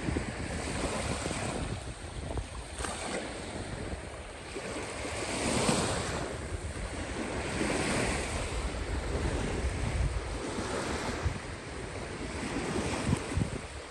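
Caspian Sea waves washing onto the shore, the surf swelling and falling back every few seconds, with wind buffeting the microphone.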